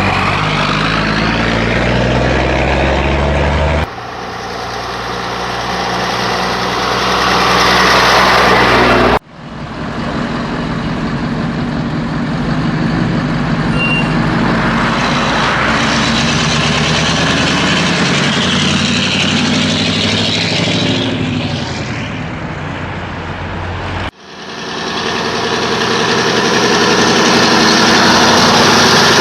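Old Scania truck's diesel engine running on the road, its note rising and falling with engine speed. The sound breaks off abruptly three times.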